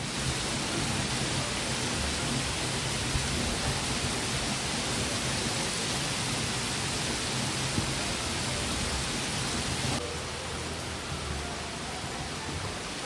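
Heavy rain falling, a steady dense hiss, a little quieter from about ten seconds in.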